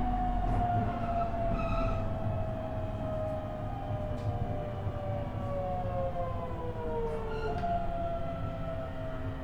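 Interior running noise of a JR East E127 series electric train, with its Toyo Denki GTO-VVVF inverter and traction-motor gear whine falling slowly in pitch as the train slows. Several tones slide down together, and one jumps back up about seven and a half seconds in. This car's gearing is known for an extra tone a semitone above the usual minor-seventh gear whine.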